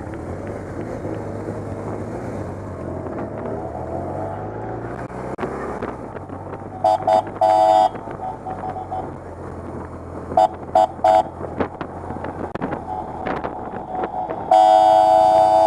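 Police motorcycles running and revving at parade pace, with horn toots: two short blasts and a longer one about seven seconds in, and three quick blasts about ten seconds in. A loud horn note starts near the end and is held.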